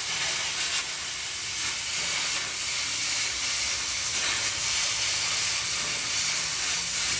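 Oxy-fuel cutting torch hissing steadily as it cuts, with a faint low hum underneath.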